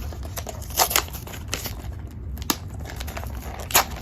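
Hands opening a small cardboard blind-box mystery package: irregular crinkling and tearing of the packaging, with sharper snaps about a second in, midway and near the end.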